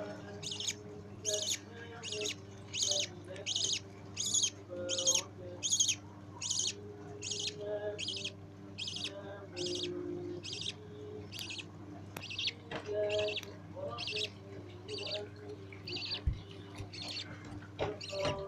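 Budgerigar chicks begging to be fed, a rhythmic series of short high raspy cheeps about two a second.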